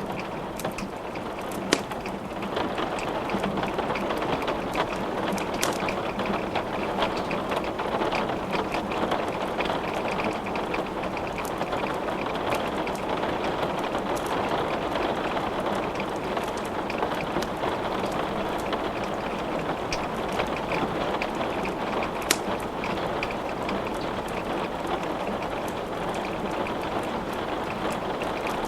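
Steady rain falling, with a wood fire crackling in a fireplace and a few sharp pops, the loudest about two seconds in and again later on.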